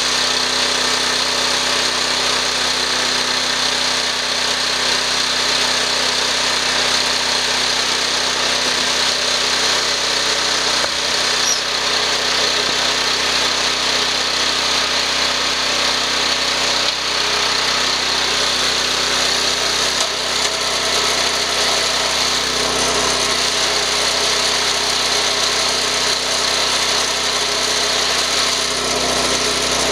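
Small engine driving a screw-cone log splitter, running steadily at an even speed.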